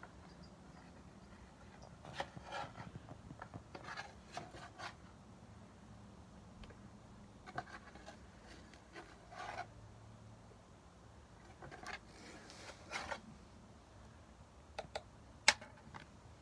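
Baking soda being scooped and poured: scattered bouts of scraping and rustling, with a few sharp clicks near the end, the loudest being a single click.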